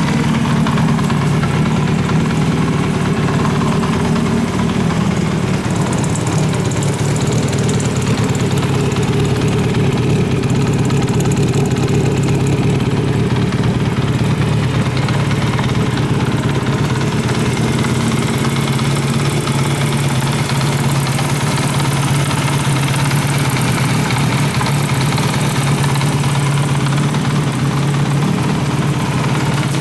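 Kawasaki KZ700 air-cooled inline-four motorcycle engine running steadily at idle, with an even, unbroken exhaust note.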